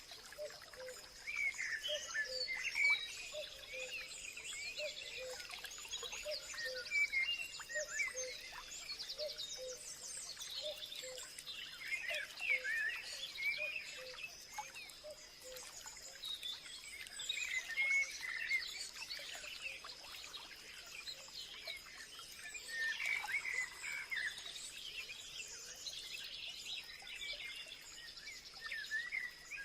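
Many birds chirping and singing at once, with short quick calls overlapping throughout. A steady high-pitched tone runs underneath, and a lower note repeats about once or twice a second through the first half.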